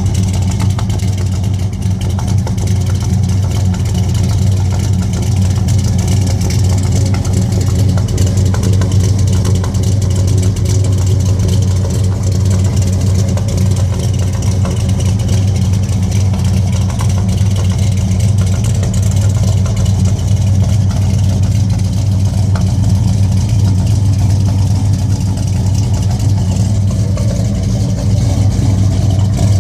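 Truck engine running steadily with a deep, even drone that holds one pitch throughout, with no revving.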